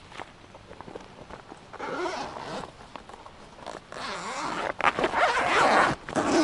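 A zipper being pulled with a noisy rasp: a short pull about two seconds in, then a longer, louder one about four seconds in.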